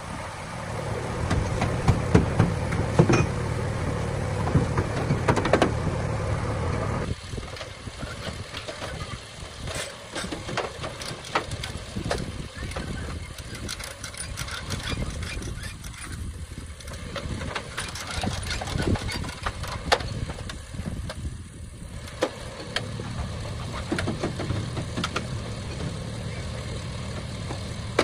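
An engine or motor running with a steady low hum, louder for the first several seconds, then dropping and returning near the end, with scattered short clicks and knocks over it.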